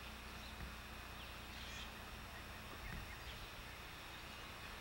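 Quiet outdoor ambience over steady tape hiss and hum, with a few faint, short bird chirps.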